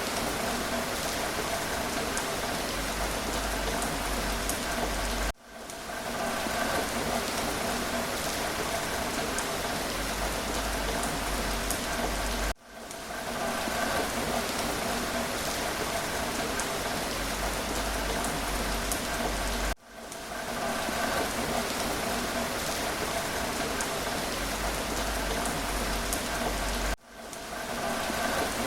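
Steady rain falling, an even hiss of drops. It dips out and fades back in about every seven seconds, the same short stretch of rain recording repeating.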